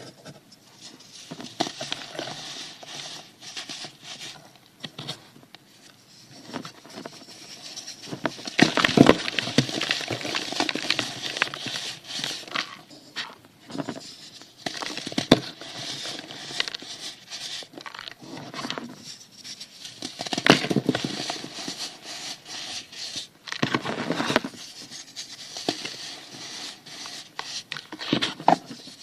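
Baking soda crunching and crumbling close to the microphone, in irregular crackling bursts with many sharp clicks, loudest about a third of the way in and again about two thirds of the way through.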